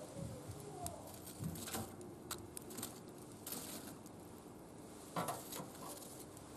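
Wood fire crackling in a metal barbecue grill: scattered sharp pops and clicks, with a louder cluster about five seconds in.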